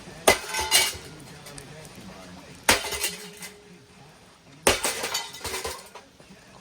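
A ceiling fan being smashed: three hard blows about two seconds apart, each followed by clinking and rattling of its metal parts and brackets.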